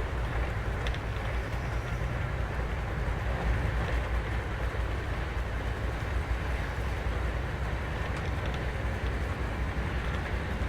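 Duronto Express passenger train running along the track: a steady low rumble with a few faint clicks.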